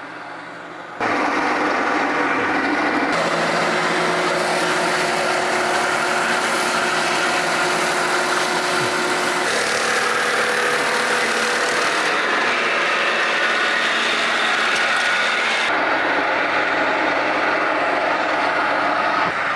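Circular sawmill running and its circle blade cutting through wood, starting suddenly about a second in. It is a loud, steady noise, with a higher hiss that is strongest in the middle and eases near the end.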